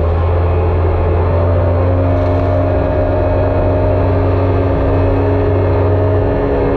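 Jet ski engine running steadily under way, a loud, even drone.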